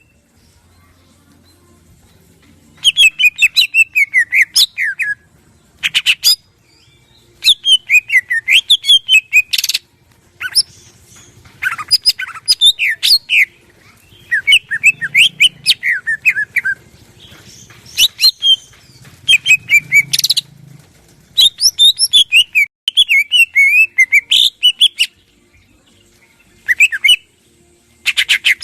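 Green leafbird (cucak ijo) singing in bursts of rapid, varied chirps and whistled notes separated by short pauses, with sharp click-like notes mixed into the phrases.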